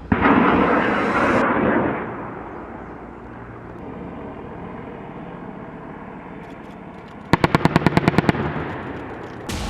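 A loud blast with a rushing tail of about a second and a half, then a steady low rumble. Near the end comes a short burst of rapid automatic gunfire, about ten shots in one second.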